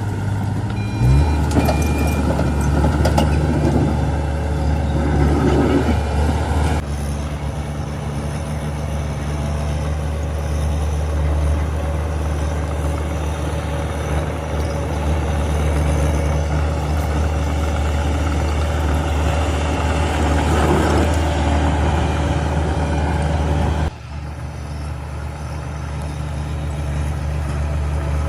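Heavy diesel engine running steadily at a low, even pitch, with a short shift in pitch about a second in. The sound changes abruptly twice, about seven seconds in and again about four seconds before the end.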